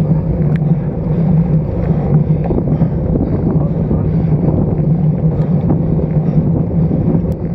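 Steady wind rushing over the microphone of a stem-mounted action camera on a road bike moving at speed, mixed with a steady low hum of riding noise.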